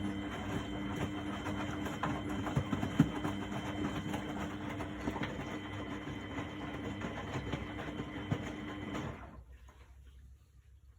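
Miele Novotronic W828 front-loading washing machine running through its wash, its motor turning the drum with a steady hum and scattered crackly clicks. It stops about nine seconds in.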